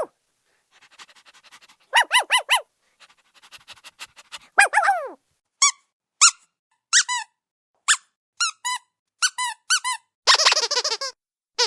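Squeaky toy squeezed over and over in short, high-pitched squeaks: a quick run of four about two seconds in, then single and paired squeaks spaced out, and a fast flurry near the end.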